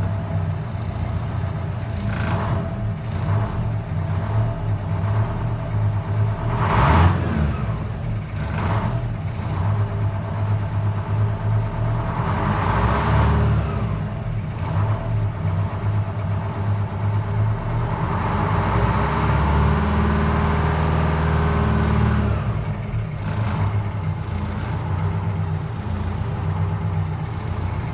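Detroit Diesel 8V71 two-stroke V8 running cold, shortly after a cold start, with a steady idle. It is lightly revved twice, about halfway through and again a few seconds later, and there is a brief knock about seven seconds in.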